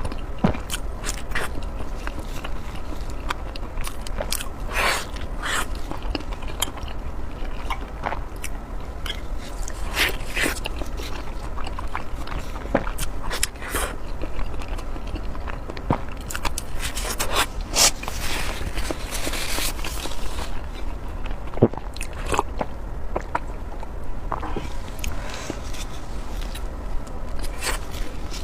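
Close-miked eating: biting and chewing with wet mouth noises and scattered sharp clicks. About two-thirds of the way through there is a denser crackly stretch of a couple of seconds.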